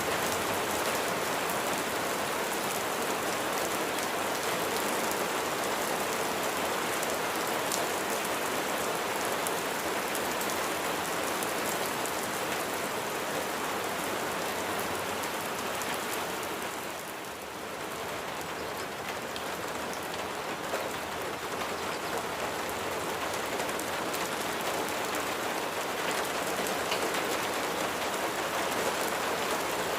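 Steady rain falling and pattering on a surface, briefly softening a little past halfway through.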